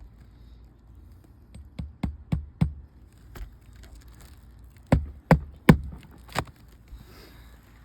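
Nails being driven into asphalt roof shingles as a replacement shingle is fastened. The sharp knocks come in two groups of about four, with a single knock between them.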